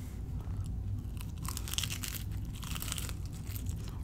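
A person chewing a mouthful of fried empanada, its flaky pastry crust crunching in two short spells in the middle.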